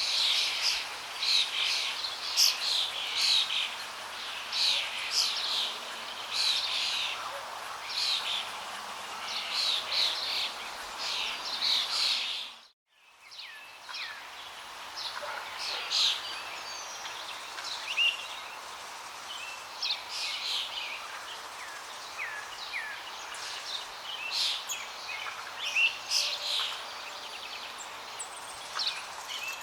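Many birds chirping and singing in quick, overlapping calls over the steady rush of flowing water. About 13 seconds in, the whole sound fades out for a moment and comes back.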